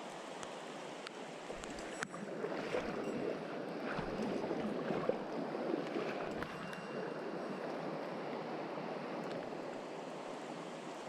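Mountain stream water rushing steadily, with a few light clicks about two seconds in and again a little later.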